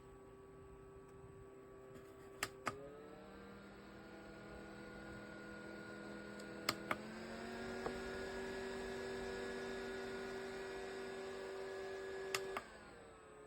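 JISULIFE rechargeable mini desk fan's motor and blades humming with a steady whine. Each of two button clicks steps the fan to a higher speed, and the whine rises in pitch and gets louder. A final click near the end drops it back down to a lower whine.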